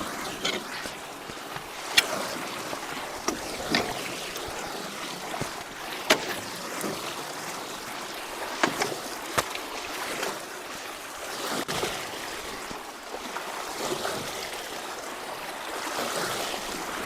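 Water rushing steadily through a culvert that is being cleared of a clog, with several sharp knocks and splashes scattered through.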